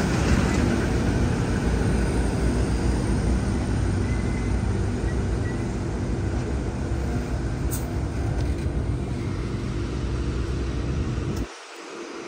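Sydney Trains double-deck electric train running at the platform: a steady rumble with a low hum. The low rumble cuts off abruptly about a second before the end.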